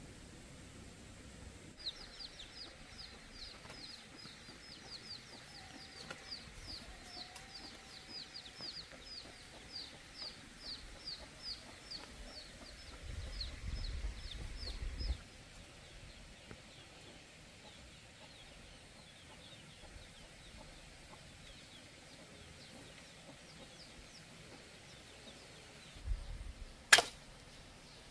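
A bird calling in a rapid run of short, high, falling chirps, about three a second, for over ten seconds before fading. Near the end comes a single sharp knock of a machete blade striking wood.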